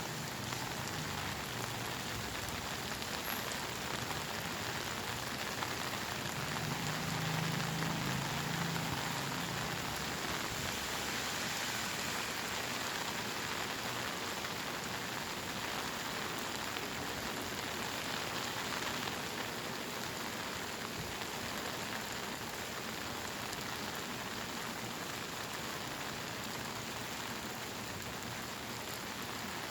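Steady monsoon rain pouring down and pattering on surfaces in a dense, even hiss, with a faint low rumble swelling briefly about seven seconds in.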